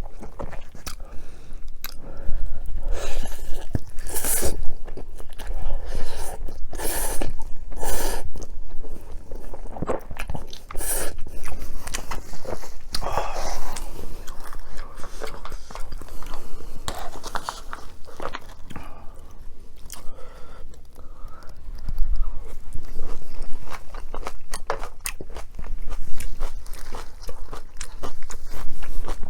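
Close-miked eating: repeated bites and chewing with crisp crunching, in loud clusters of crackles.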